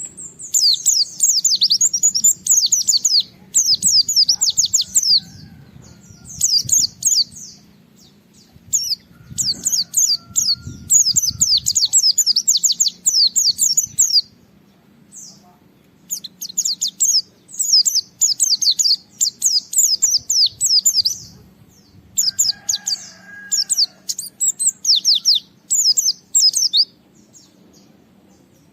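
White-eye (pleci) singing energetically: bursts of rapid, high, downward-sweeping chirps, each lasting one to three seconds, repeated again and again with brief pauses, over a faint low steady hum.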